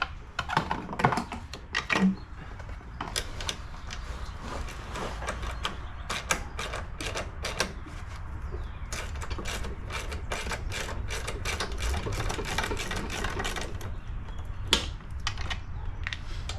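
Rapid metallic clicks and clinks of hand tools working on a lawn mower as the carburetor is taken off, over a steady low rumble.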